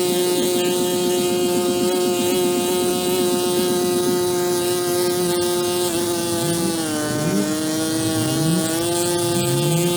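A motor running steadily with a constant hum over a hiss. Its pitch sags briefly about seven seconds in, then recovers.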